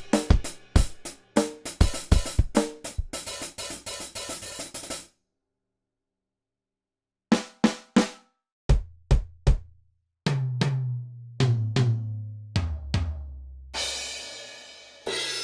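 Sampled acoustic drum kit from Roland DrumStudio Acoustic One. A drum beat ends about a third of the way in, and after a short silence single hits are played on the drums one at a time, the toms stepping down in pitch. Long ringing cymbal-like hits come near the end.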